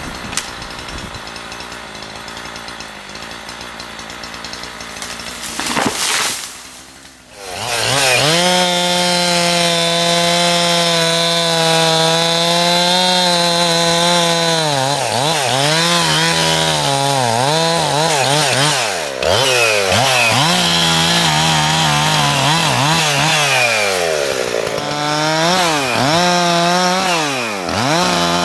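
A steady hiss for the first few seconds, then from about seven seconds in a two-stroke chainsaw running at high revs, its pitch dipping and recovering several times as it cuts into the wood.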